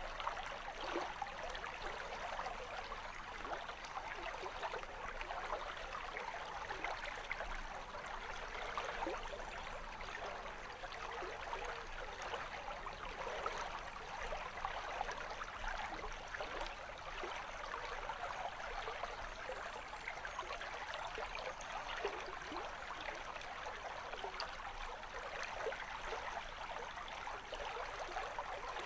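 Flowing stream running over rocks: a steady rushing of water with fine gurgling flicker.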